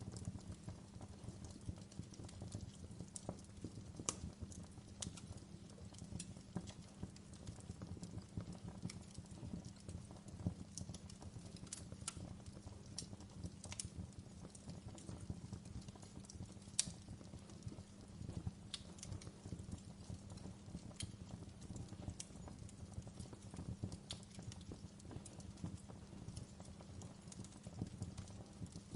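Wood fire burning in a fireplace: a low steady rumble of flame with irregular crackles and pops, one sharper pop about two-thirds of the way through.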